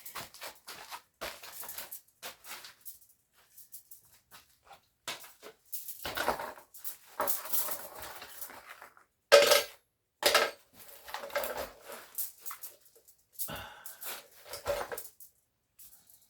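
Irregular metal clicking and scraping of a tubing cutter being worked around a brake line to cut off its flared end, with two louder ringing metal clinks a little past the middle.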